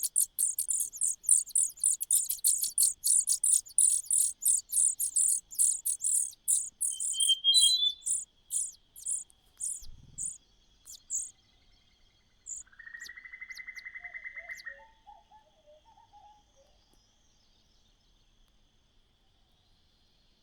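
Nestling birds begging with rapid, high-pitched calls, about four a second, which thin out and stop about halfway through. A short buzzy trill and a few lower chirps follow, over a faint steady high whine.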